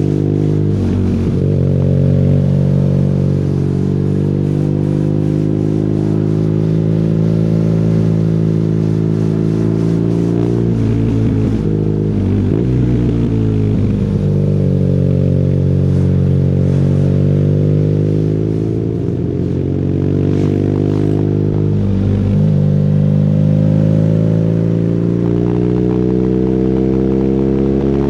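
BMW R nineT's air-cooled boxer twin through an Akrapovic exhaust, pulling hard under load. The engine note repeatedly climbs in pitch and then drops sharply at each gear change, and eases briefly off throttle about two-thirds of the way through.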